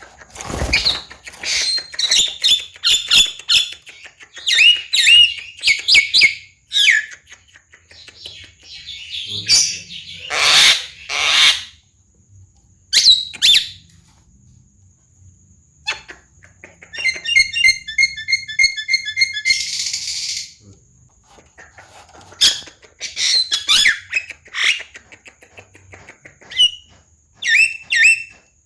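Javan myna (jalak kebo) singing: phrases of sharp, quick chirps and whistled notes broken by pauses. About two-thirds of the way through comes a fast rattling run followed by a harsh, noisy squawk.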